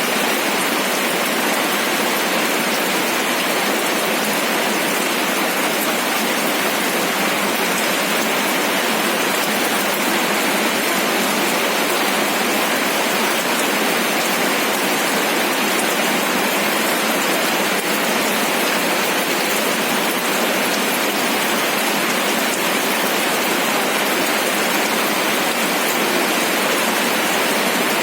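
Steady rain falling on a surface, an even hiss of many small drops that holds constant throughout.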